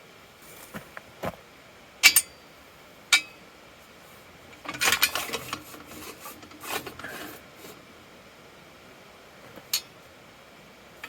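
Metal parts of a truck hitch game hoist clinking and knocking as they are handled: two sharp clanks about two and three seconds in, a clattering run around the middle, a few more knocks soon after, and one last tap near the end.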